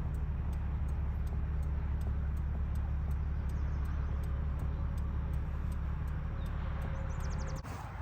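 Steady low vehicle rumble heard from inside the cab, with faint even ticking about four times a second. It cuts off abruptly near the end.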